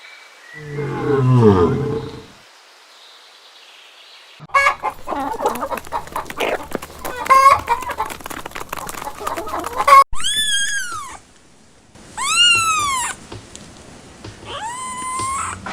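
A short low call near the start, then chickens clucking for several seconds, followed by three separate short calls that rise and fall in pitch.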